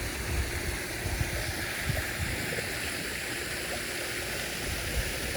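Pool waterfall feature running: a steady rush of falling water.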